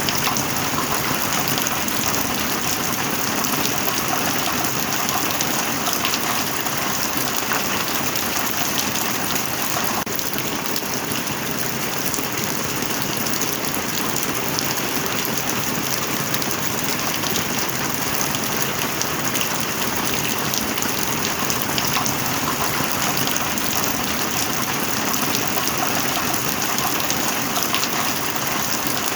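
Heavy rain falling steadily, a dense even hiss with many individual drops pattering.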